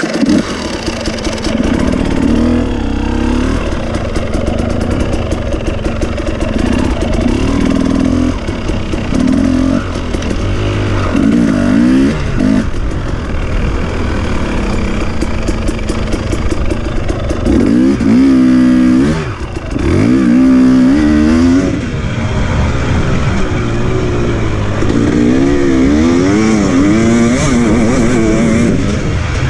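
Husqvarna TE 300i's two-stroke enduro engine being ridden hard, its revs rising and falling with the throttle and gear changes. Sharp up-and-down revving comes several times around the middle and again near the end, with a brief drop in revs partway through.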